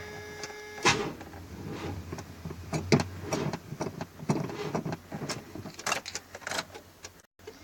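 Truck engine being cranked by its starter after sitting cold for a month and a half, turning over without catching, with a low steady hum and scattered clicks and knocks; the loudest knock comes about a second in.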